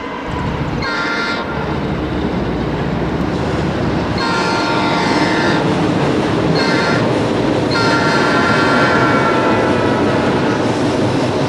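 Freight train crossing a steel truss bridge: a steady rumble of the cars on the rails, with the locomotive's horn sounding four blasts, short, long, short, then the longest.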